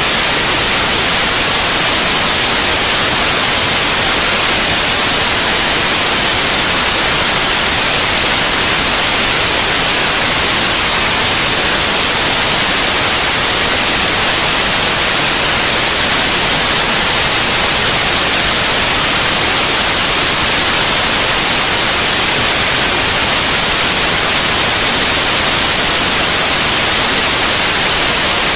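Steady, loud white noise: an even hiss with no rhythm or change, weighted toward the high frequencies, played as a sleep aid for babies.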